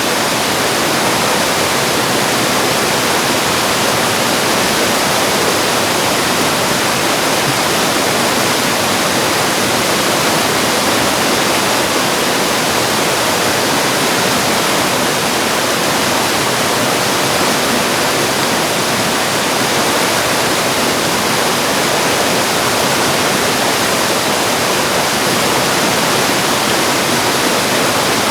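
Mountain stream rushing over rocks in a valley, a steady, loud, even rush of water.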